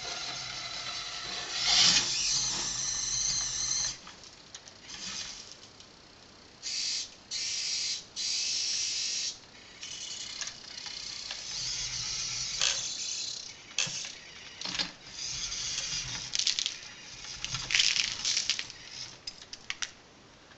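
Siku Control32 model Fendt tractor's small electric drive motor and plastic gears whirring in short start-stop runs, with clicks and rattles between them.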